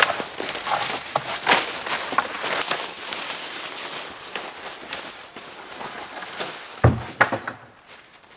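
Dry wood cracking and snapping in a quick, irregular series, then a heavy thud about seven seconds in, followed by a couple more sharp cracks.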